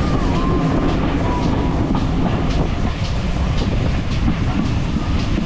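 Train running along the rails: a steady rumble with wheels clicking over the rail joints every second or so.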